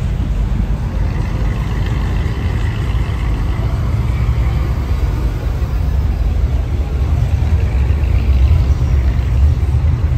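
Low, steady rumble of car engines running.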